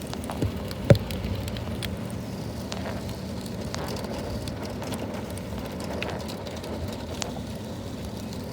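Heavy rain falling outside, a steady wash of noise with scattered sharp drip clicks. One louder knock comes about a second in.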